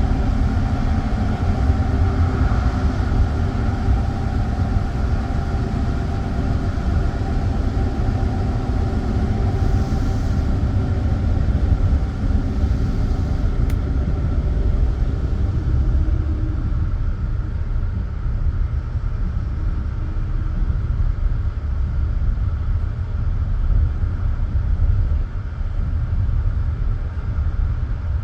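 Passenger train running on the rails, heard from inside a coach: a steady, loud low rumble of the wheels on the track, with a faint whine that fades out a little past halfway.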